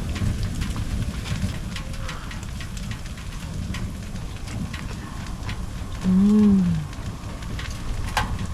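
Wood fire crackling in a wood stove, scattered small clicks over a steady low rumble. About six seconds in, a short hummed "mmm" that rises and falls in pitch, a person tasting food, is the loudest sound.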